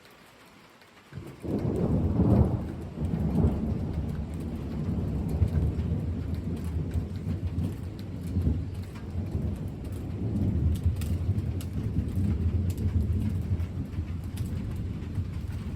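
Thunder breaks suddenly about a second in and rolls on as a long low rumble that swells and eases, over steady rain.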